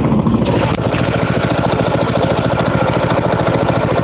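Dirt bike engine idling steadily, its firing pulses even and unbroken.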